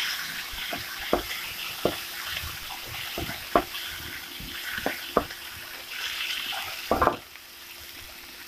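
Chopped onion and tomato sizzling in hot oil in a non-stick kadai, stirred with a slotted spatula that knocks and scrapes against the pan every second or so. The stirring stops about seven seconds in, leaving a quieter sizzle.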